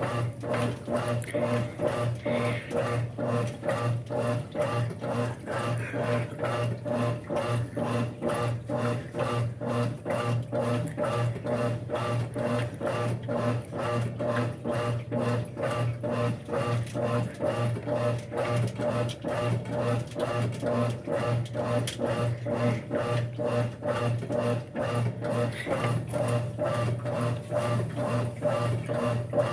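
Brastemp 5 kg top-loading washing machine running its wash cycle: a steady motor hum with a rhythmic churning that repeats about twice a second.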